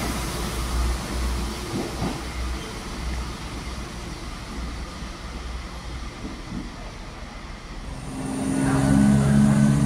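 Class 172 Turbostar diesel multiple unit departing, its low engine rumble and wheel noise fading steadily as it draws away into a tunnel. Near the end a louder steady hum with several held tones comes in.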